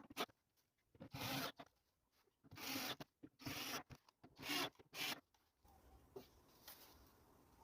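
Five rough scraping strokes by hand on a surface, about one a second, then a faint low hum in the last couple of seconds.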